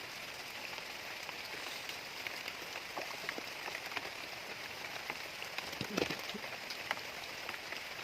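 Steady rain falling, with many small drop ticks over a constant hiss. A single louder thump about six seconds in.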